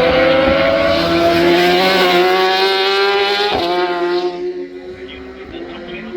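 A racing superbike engine accelerating hard past, its revs rising steadily, then a sharp drop about three and a half seconds in before it fades away down the track.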